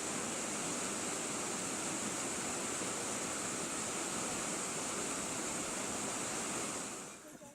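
Steady rush of fast-flowing river water, dropping away near the end.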